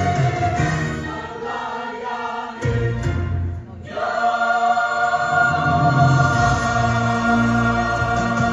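Church choir singing with long held chords; the sound thins and drops briefly about three and a half seconds in, then a sustained chord comes back in.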